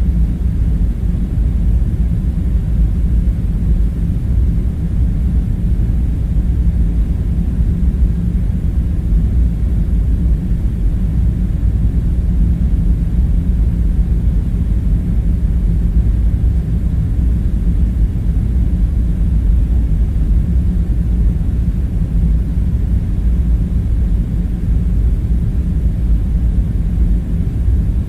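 Steady low rumble, unchanging throughout, with no distinct knocks or other events standing out.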